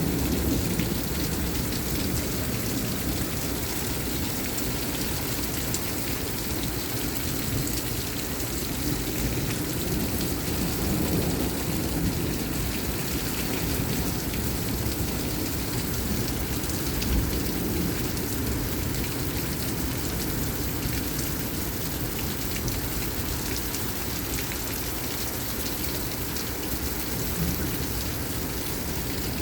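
Heavy rain falling steadily in a severe thunderstorm, with low rumbling thunder underneath and one brief louder burst a little past halfway.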